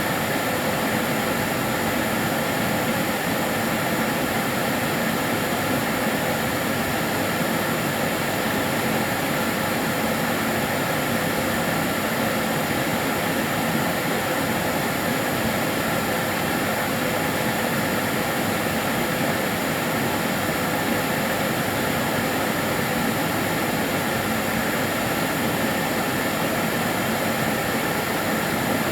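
Karcher DS 6 Premium water-filter vacuum cleaner running steadily: an even motor whoosh with a few faint steady tones and no change in speed.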